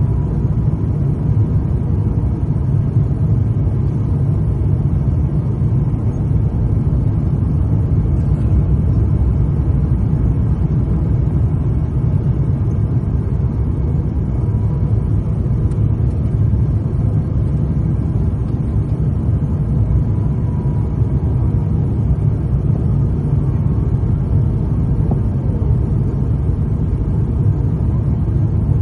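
Airbus A350-900 cabin noise on approach: the steady deep rumble of its Rolls-Royce Trent XWB engines and airflow heard from a seat beside the engine, with faint steady tones over it.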